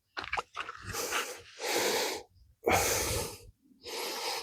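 Heavy breathing close to the microphone, noisy breaths in and out about once a second, with a few sharp clicks of metal parts being handled in the first second.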